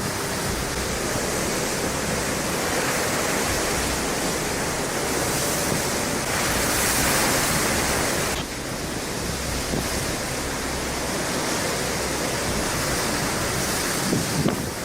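Steady rushing noise of wind and water, swelling slightly and then dropping suddenly about eight seconds in.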